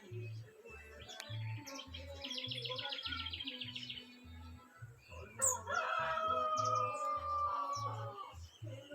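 Small birds chirping, with a fast trill of notes about two seconds in, then a rooster crowing in one long call from about halfway that is the loudest sound. A steady low musical beat runs underneath.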